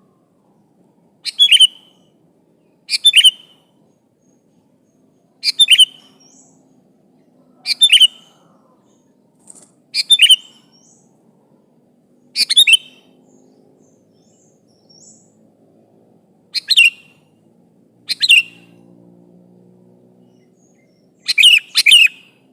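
Sooty-headed bulbul (kutilang) giving short, sharp calls about every two seconds, with a quick double call near the end: a bulbul calling out to rivals.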